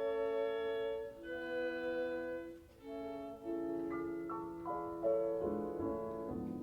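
Symphony orchestra playing a slow phrase of long held chords that change about once a second, entering after a brief hush and growing fuller toward the end.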